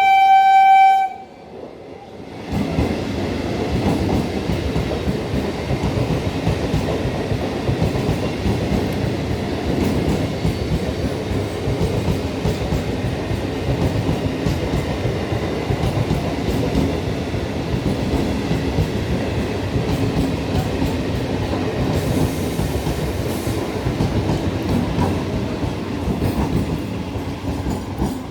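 Electric local train's horn sounds once, briefly, at the start; then from about two seconds in the train runs in, a loud steady rumble with the rapid clatter of wheels over the rails.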